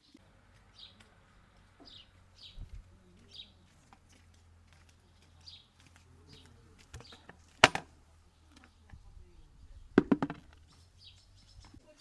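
Small birds chirping now and then in short high calls. A sharp loud knock comes a little over seven seconds in, and a short loud burst follows about two seconds later.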